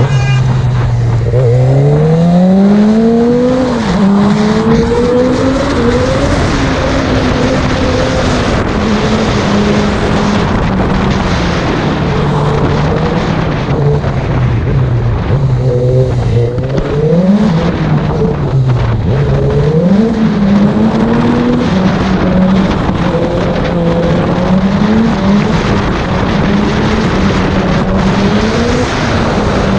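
Sport motorcycle engine pulling away and revving up through the gears, the pitch rising and dropping back at each upshift, then easing off and holding a steady cruise, with wind rushing over the helmet microphone.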